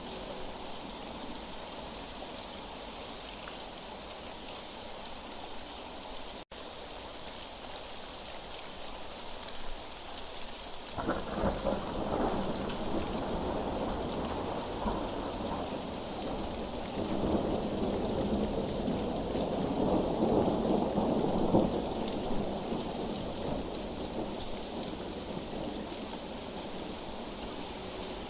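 Steady rain, with a momentary gap in the sound about six seconds in. About eleven seconds in, thunder rolls in suddenly, swells again a few seconds later and fades back into the rain.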